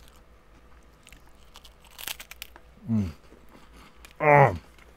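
Crunching and chewing of a crisp, crumbly wafer-shell snack, with a cluster of sharp crunches about two seconds in. Two short hums from the eater's voice follow, the second louder.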